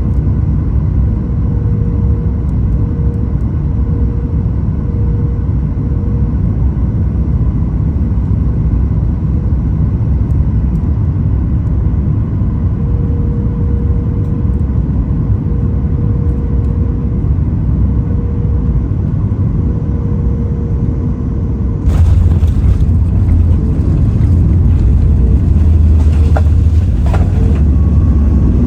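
Airliner cabin noise on a Boeing 737 MAX 9 coming in to land: steady engine and airflow rumble with a faint steady hum. About three-quarters of the way through it turns abruptly louder and deeper, the rumble of touchdown and the landing roll.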